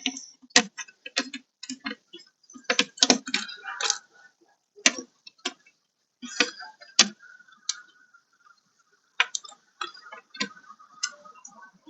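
Irregular small clicks and taps of needle-nose pliers working a white plastic clip out of a Lexus SC430 door panel, with a brief faint scrape partway through.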